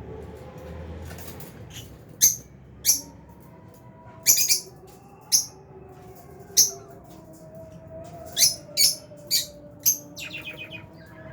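Lovebirds giving sharp, high-pitched chirps one at a time, about nine over several seconds, then a quick chattering run of calls near the end.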